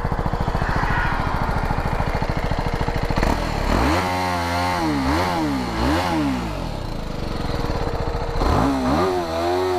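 BMW G 310 R's single-cylinder engine idling, then revved with the bike standing: three quick throttle blips about three to six seconds in, back to idle, and one more blip near the end.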